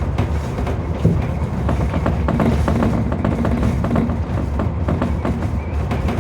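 Tobu 30000 series electric train running at speed, heard from inside the front car: a steady low rumble with a quick, uneven run of clicks and clacks from the wheels on the track, thickest between about one and a half and three seconds in.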